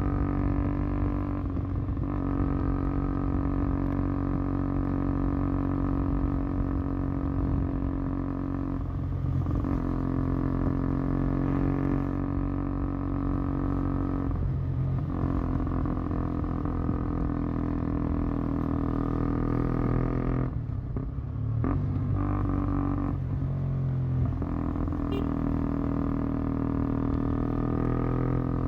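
KTM Duke 125 single-cylinder four-stroke motorcycle running under way, its exhaust note steady in pitch and breaking off briefly about five times.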